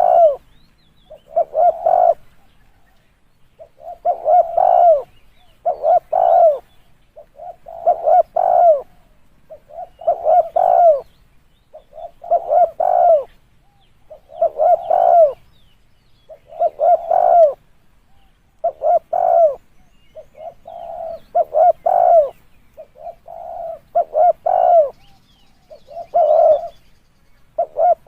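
Spotted dove cooing: a short phrase of several rising-and-falling coos, repeated about every two seconds, with fainter coo phrases in between later on.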